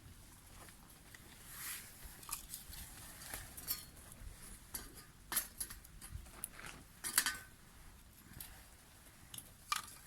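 Metal cutlery clinking and scraping irregularly against cookware as the fried rice is handled, with a louder run of scrapes about seven seconds in.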